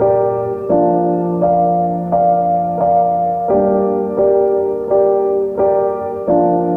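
Background piano music: a slow, even run of single notes, about one and a half a second, each struck and left to ring.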